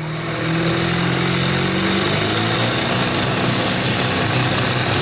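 Engine of a pulling vehicle running loud and steady at high revs, with a dense rushing noise over it.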